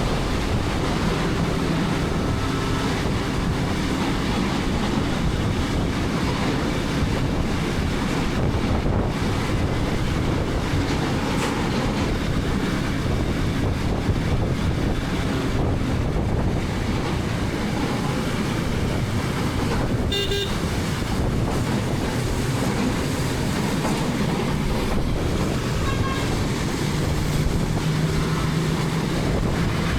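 KTM 250 Adventure's single-cylinder engine running steadily under way, with wind rushing over the helmet-mounted camera and road traffic around it. A vehicle horn toots briefly about two-thirds of the way through.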